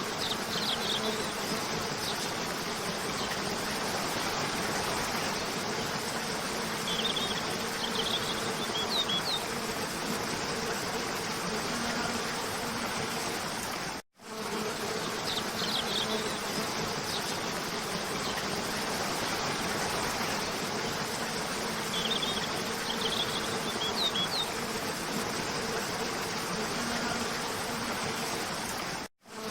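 Waterfall rushing steadily under a steady low buzzing hum, with small clusters of short high bird chirps a few times. The sound cuts out for an instant about halfway through and again near the end, where the loop restarts.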